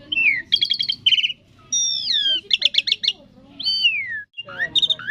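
Asian pied starling (jalak suren) singing a varied, mimicking song: downward-sliding whistles mixed with quick runs of repeated chattering notes, with a brief break near the end.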